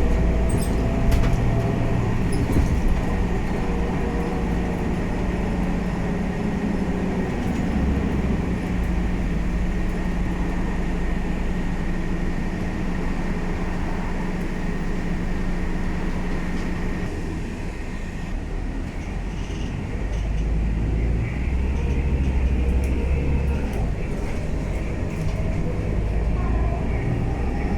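Scania K320UA city bus running, its engine drone and transmission whine steady. It eases off about two-thirds of the way through, then pulls away again.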